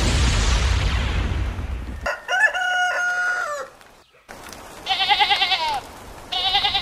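A deep rumble dies away about two seconds in, followed by a rooster crowing once, a long call that drops at the end. Then a sheep bleats twice with a wavering voice.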